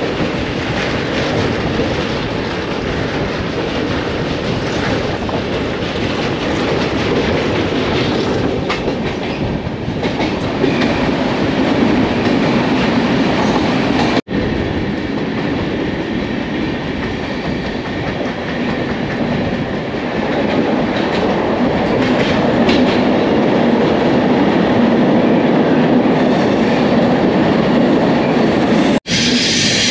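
Moving train heard onboard: a steady rumble of LHB coach wheels running on the rails, with a clickety-clack over the rail joints. The sound cuts out abruptly for a split second twice, about halfway through and near the end.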